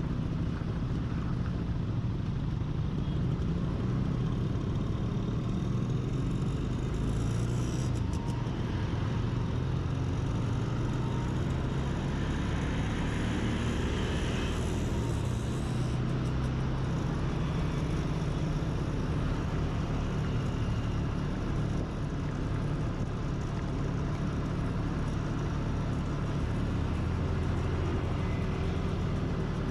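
Steady engine and road noise from a vehicle on the move, with a swell of louder rushing hiss in the middle, as of traffic passing or the speed picking up.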